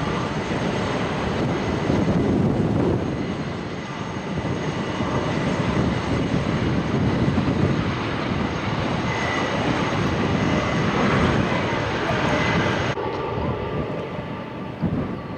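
Airliner's jet engines running loud and steady, a dense rumbling noise with a faint high whine. The higher part of the sound drops away abruptly near the end.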